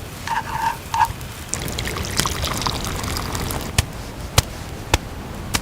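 Liquid being poured, with a few short gurgles at first, then scattered crackling and four sharp pops from a wood campfire, about 0.6 s apart near the end, over a steady low rumble.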